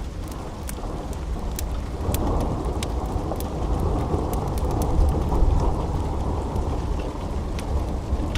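Steady rain with a low rumble of thunder that swells about two seconds in and is loudest around the middle, and sharp crackles and pops from a wood fire scattered throughout.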